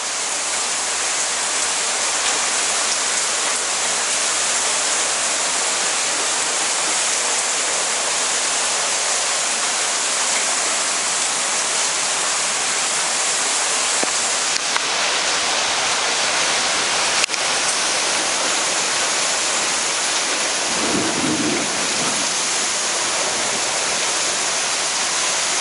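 Heavy rain pouring steadily, a dense even hiss of downpour, with one sharp click about seventeen seconds in.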